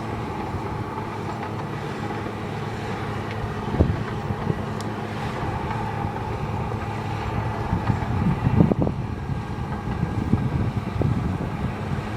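Caterpillar D8R crawler dozer working, its diesel engine running steadily under load, with a sharp knock about four seconds in and a cluster of louder clanks around eight to nine seconds in.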